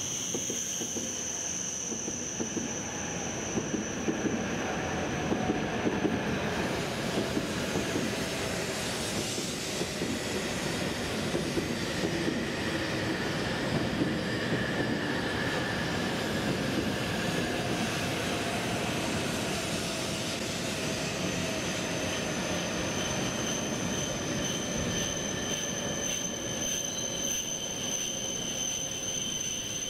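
W7 series Shinkansen train running slowly past as it pulls into the station: a steady rumble of wheels on rail with a high, thin squeal that fades after about six seconds and comes back in the last third, and a fainter whine that slowly falls in pitch as the train slows.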